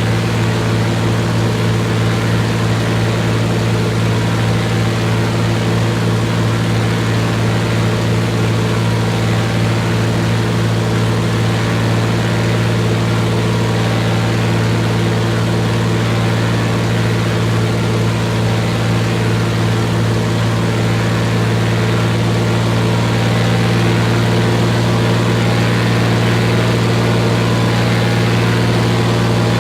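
An engine running steadily at an even speed, with a constant low hum that gets slightly louder over the last few seconds.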